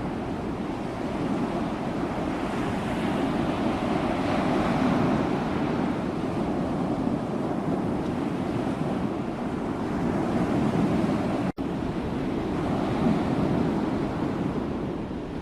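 Sea waves washing in as continuous surf, swelling and easing in slow surges, with a split-second dropout in the sound about eleven seconds in.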